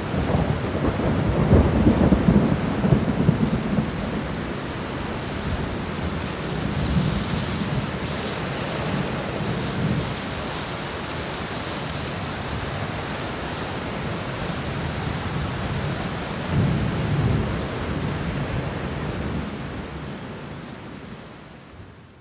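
Rain falling steadily with rolling thunder: low rumbles swell in the first few seconds and again about sixteen seconds in, and the whole fades out near the end.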